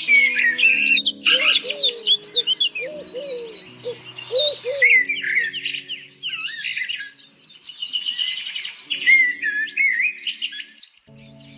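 Birds chirping and calling in a busy stream of quick high notes and trills, over background music with held low chords.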